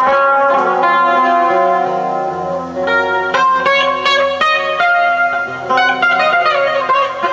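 Guitar music with no singing: held, ringing notes, then single notes picked out in quick runs from about three seconds in.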